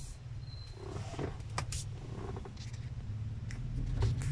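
Car engine idling, a steady low rumble heard from inside the cabin, with a few faint clicks. The rumble swells louder near the end.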